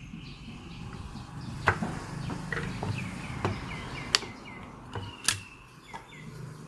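A few sharp clicks and knocks of small gun parts being handled during disassembly of an electric airsoft rifle, over a low steady hum.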